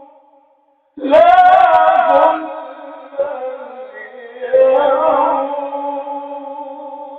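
A male reciter chanting the Quran in melodic tajwid style. A held note fades out, and after a short pause he sings new phrases with ornamented, wavering pitch, the second ending on a long held note.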